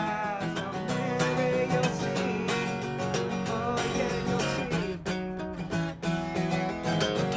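Acoustic guitar strummed in a steady rhythm, with a man's voice singing over the first half.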